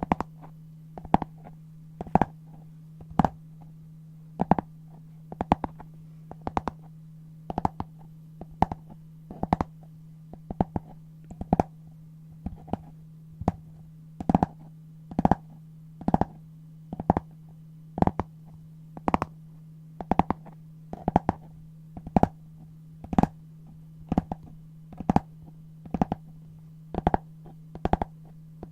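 Scissors cutting through brown paper, one crisp snip about every second, sometimes two close together, over a steady low hum.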